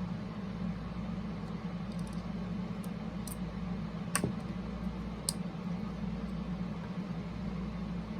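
Steady low hum of background room noise, with a few faint light clicks and taps from handling small parts. The sharpest click comes about four seconds in.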